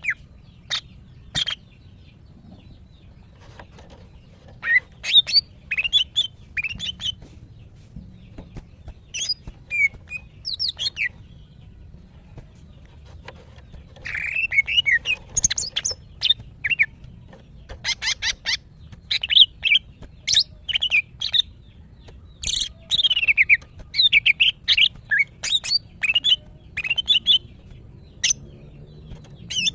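Female greater green leafbird (cucak ijo) calling: quick runs of short, sharp chirps and squeaky notes in several bursts with brief pauses between. These are the calls of a female in breeding condition, calling for a male.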